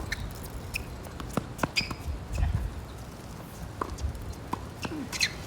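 Wind buffeting the microphone in a low, uneven rumble, with scattered sharp taps and knocks and a few short high squeaks.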